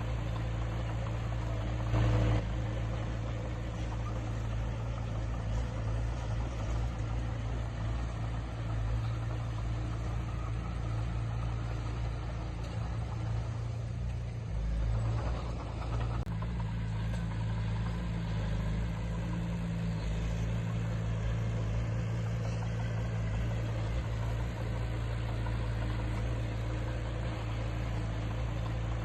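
Diesel engine of heavy earthmoving equipment running steadily, with a short louder knock about two seconds in.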